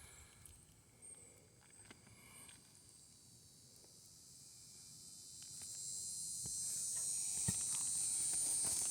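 Insects buzzing in a steady high-pitched chorus that swells louder about halfway through, with a few faint taps.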